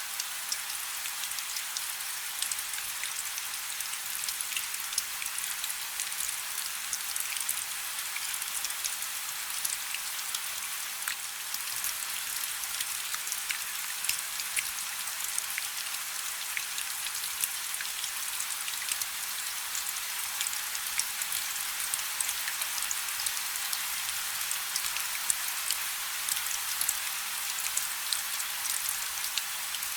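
Steady rain falling on a river: a constant hiss full of many small, sharp drop ticks.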